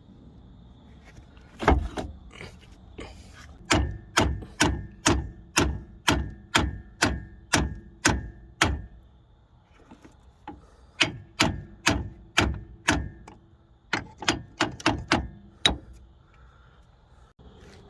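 Sharp metallic knocks, each with a short ring, in steady runs of about two a second: a long run of about a dozen, then after a pause two shorter runs. This is metalwork on the wheel hub and bearing assembly.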